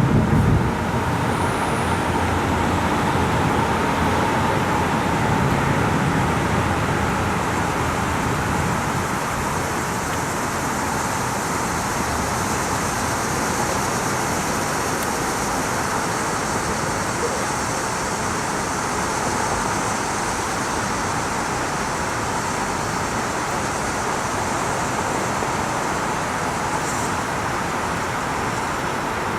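Steady rain in a severe thunderstorm, a dense even hiss. A low rumble fades out over the first several seconds.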